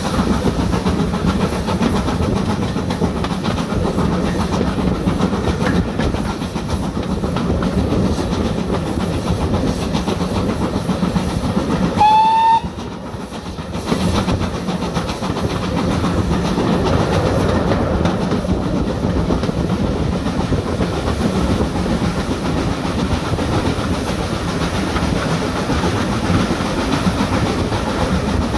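A train running on the line, a steady rumble with wheels clattering over the rail joints. About twelve seconds in comes one short toot, and the sound dips for about a second before the rumble returns.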